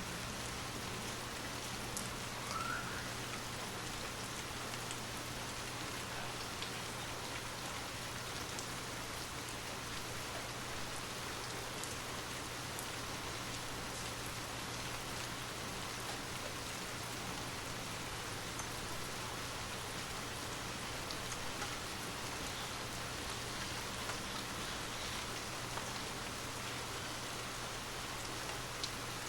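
Steady rain falling, an even continuous hiss with scattered drops ticking.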